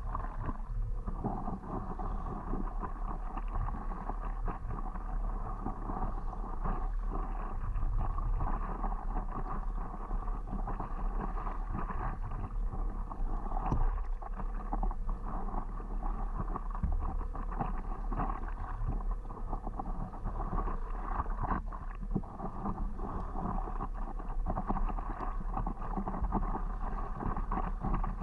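Water splashing and lapping around a stand-up paddleboard as it is paddled, with irregular small splashes. Wind rumbles on the microphone throughout.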